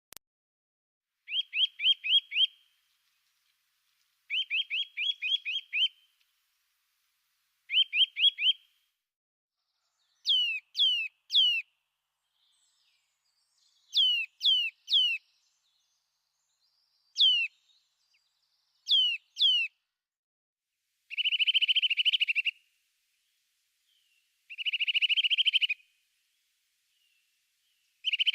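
A small songbird singing short phrases about every three seconds, changing phrase type as it goes: first quick trills of five or so clear notes, then phrases of two or three steeply falling whistles, then buzzy rapid trills.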